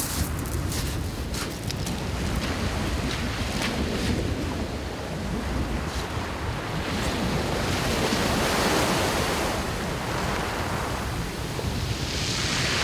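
Waves breaking and washing up a shingle beach, with strong wind buffeting the microphone. The surf wash swells about eight seconds in and again near the end, and a few crunching steps on shingle come in the first couple of seconds.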